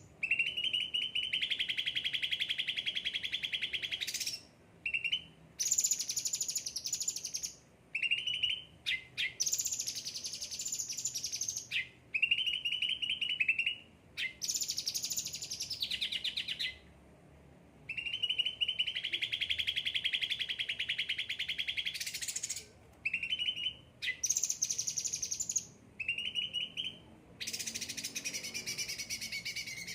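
Caged ocean green songbird (cucak ranting) singing steadily in repeated phrases of one to four seconds with short pauses between them. The phrases alternate between lower rapid trills and higher, brighter phrases.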